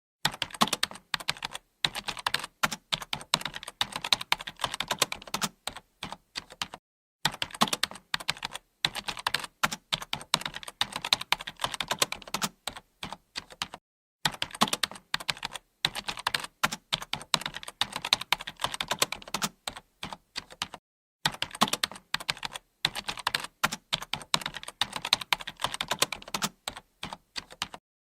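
Typing on a computer keyboard: a fast, steady run of key clicks, broken by three short pauses spaced evenly through the stretch.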